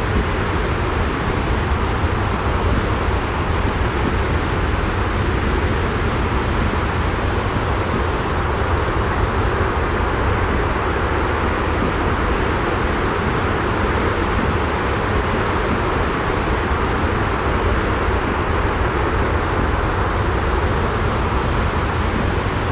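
Steady white noise with a deep rumble underneath, even and unchanging throughout.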